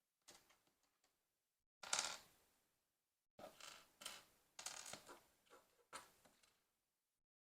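Small plastic LEGO pieces clicking and clattering as they are handled, in short bursts, the loudest about two seconds in and a run of them from about three and a half seconds on.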